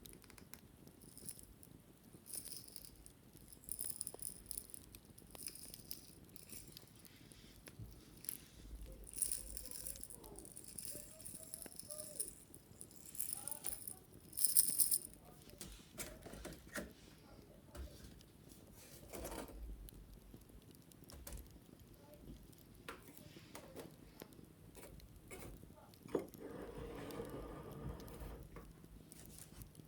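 Wicker basket being handled and cleaned: woven cane rattling and clicking, with bursts of scratching and rubbing in the middle, the loudest about halfway through.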